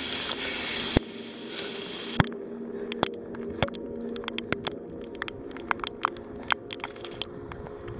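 Rain hissing for about two seconds, then it drops away to scattered, irregular raindrop ticks over a steady low hum.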